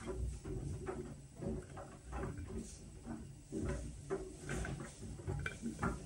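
Whirlpool washing machine running its Steam Refresh cycle: irregular soft thumps and clicks, several a second.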